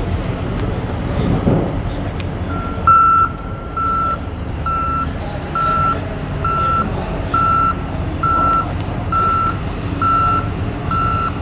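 John Deere skid steer loader's backup alarm beeping about once a second, starting about three seconds in, over its engine running: the machine is travelling in reverse.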